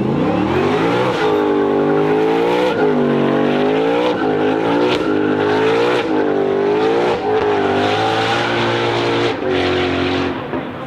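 Ford Mustang GTD's supercharged 5.2-litre V8 running at high revs, its note repeatedly dipping and climbing again about once a second. Tyres squeal under wheelspin, as in a burnout.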